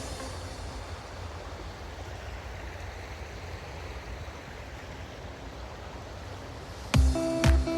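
Steady rushing outdoor noise, heaviest in the low end, of the kind given by running water or wind. Music with a strong beat cuts back in near the end.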